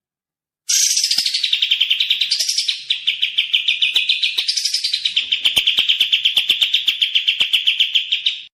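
A songbird singing one long, rapid trill of quick repeated notes with a few rising flourishes. It starts about a second in and breaks off suddenly near the end.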